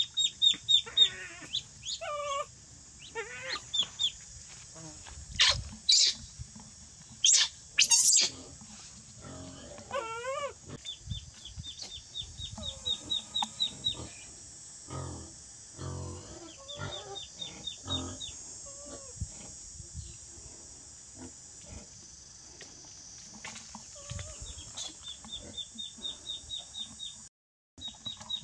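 Birds calling, including clucking like chickens, with short rapid high trills that come back several times, over a steady high hiss.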